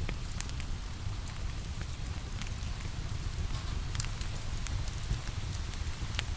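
Steady rain pattering, mixed with the crackle of a wood fire: a constant hiss with scattered sharp pops and a low rumble underneath.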